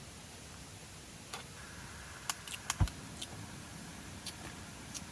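Scattered light clicks and knocks of objects being handled, with one louder thud about three seconds in.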